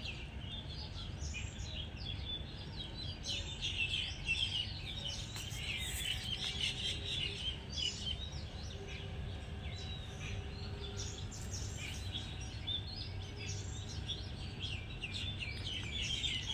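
Many birds chirping and singing at once, short calls overlapping densely throughout, over a steady low background rumble.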